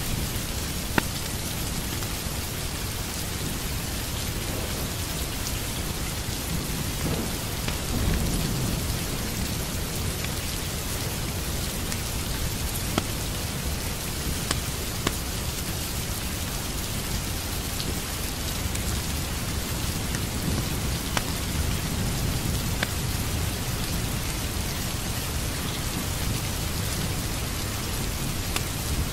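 Steady rain, with a low rumble swelling about eight seconds in and a few sharp clicks scattered through it.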